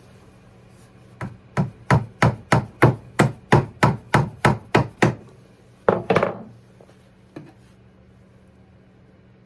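A small hammer tapping a tiny nail into a wooden birdhouse: about a dozen quick, even taps, roughly three a second, then two harder blows about six seconds in.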